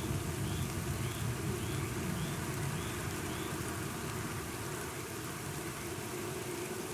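Steady rain hiss with a low, rolling rumble of thunder underneath that dies away toward the end. A faint short chirp repeats about twice a second in the first few seconds.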